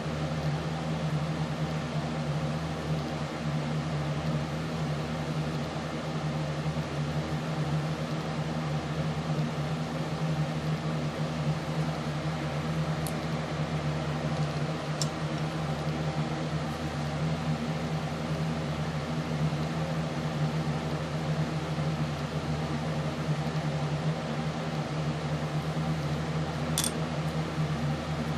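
A steady low mechanical hum with an even, unchanging pitch. Three faint short clicks are heard, about halfway through, two seconds later, and near the end.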